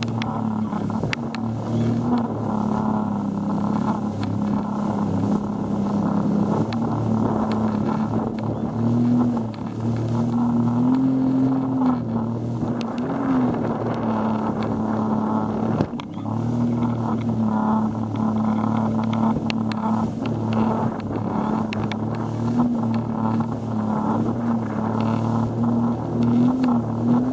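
A boat's engine running steadily under way, its pitch wavering slightly up and down.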